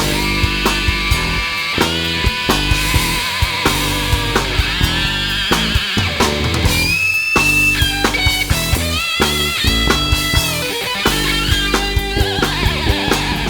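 Rock band playing an instrumental break. A lead guitar melody with bends and vibrato plays over bass and steady drums, with no vocals.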